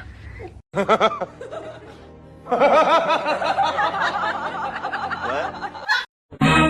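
Music with repeated bursts of laughter, broken by abrupt cuts; the longest stretch of laughter runs from about two and a half seconds in to near the end.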